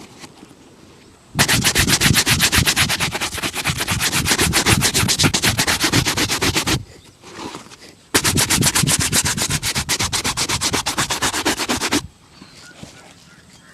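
Rapid back-and-forth buffing strokes on a leather shoe during a shoe shine, about eight strokes a second, in two long runs of roughly five and four seconds with a short pause between.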